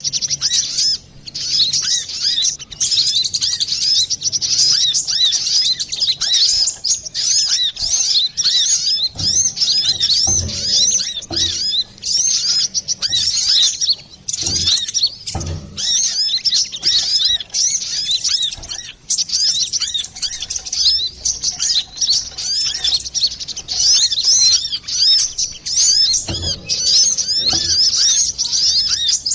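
Brown-throated sunbird (kolibri kelapa) singing busily: a fast, nearly unbroken stream of high chirps and twitters. A few dull low thumps come in here and there.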